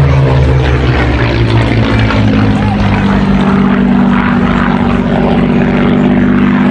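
Supermarine Spitfire IX's Rolls-Royce Merlin V12 engine and propeller during a display pass. The engine note drops in pitch at the start as it goes by, then settles into a steady drone.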